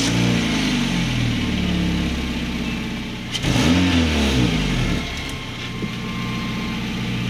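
2012–2015 Honda Civic four-cylinder engine running through its new muffler just after starting. The revs settle over the first couple of seconds, rise and fall once with a blip of throttle about three and a half seconds in, then hold at idle. A small exhaust leak remains at the flex joint ahead of the muffler.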